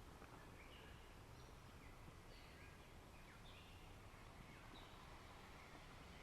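Faint songbirds giving short, scattered chirps over a soft, steady hiss of outdoor ambience.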